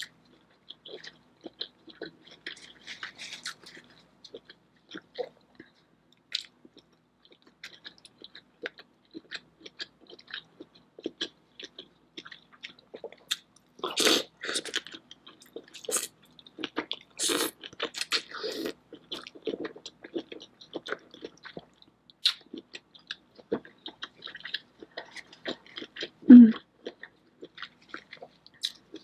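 Close-miked eating of a Cajun seafood boil: wet chewing and biting on lobster tail and shrimp in butter sauce, with many small scattered mouth clicks. A louder run of biting and chewing comes about halfway through, and one brief, louder, low sound comes near the end.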